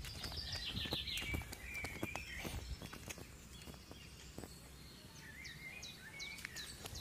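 Wild birds singing outdoors: a quick run of high chirps in the first second or so, warbling phrases in the middle, and short falling chirps near the end. Light footsteps tap on a paved path underneath.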